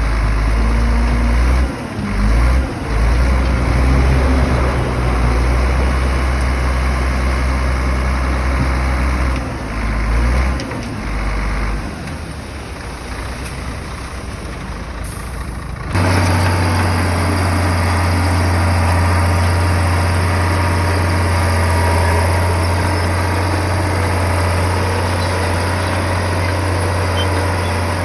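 Diesel engine of a heavy earthmoving machine running steadily, with brief dips in level in the first half. About halfway through the sound cuts abruptly to a different steady, low engine drone.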